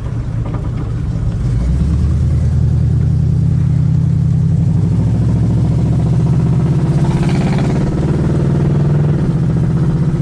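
Carbureted Chevy 350 small-block V8 pulling hard under acceleration, heard from inside the car: the engine note swells about a second and a half in and then climbs slowly in pitch.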